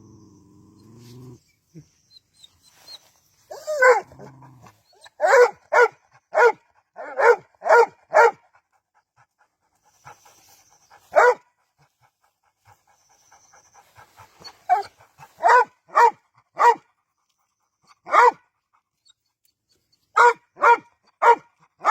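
A dog barking: runs of sharp single barks about half a second apart, with pauses of a few seconds between the runs.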